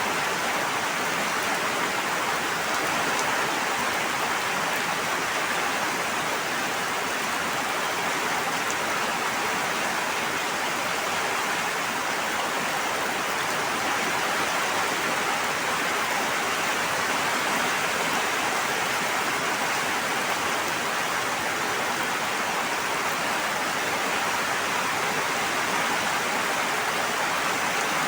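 Steady, even rush of water, with no single drops or surges standing out.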